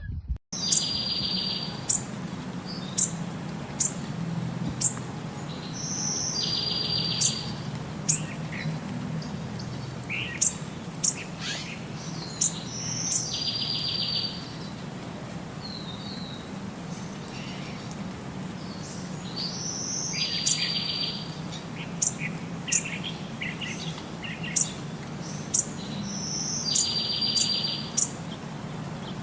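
Bird calling: many short, sharp high chirps, with a buzzy call about a second long repeated roughly every six to seven seconds, over a steady low hum.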